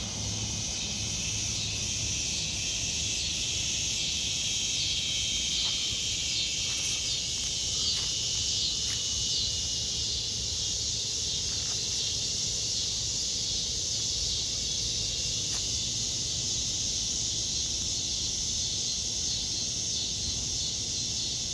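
Cicadas singing in a dense, steady high-pitched chorus.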